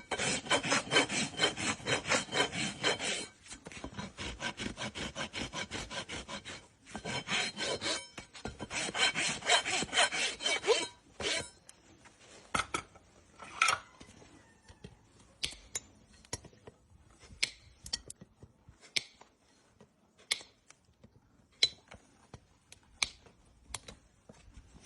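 A farrier's hoof rasp filing a horse's hoof wall in fast, steady back-and-forth strokes, pausing briefly twice. After about eleven seconds the rasping stops, leaving scattered single sharp clicks.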